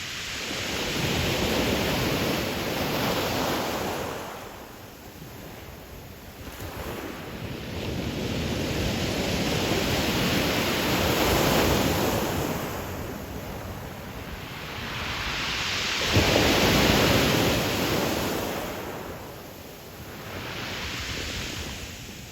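Ocean waves breaking and washing up a pebble beach in four swelling and fading surges, the sharpest break coming suddenly about sixteen seconds in.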